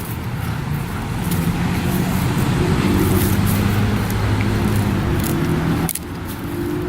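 A motor vehicle's engine running close by, a low steady hum that grows louder through the middle and cuts off abruptly about six seconds in.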